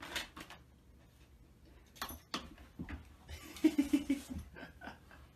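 Pet door flap knocking and clattering several times as a large dog pushes through it. About halfway through comes a quick run of four short, low sounds from the dog.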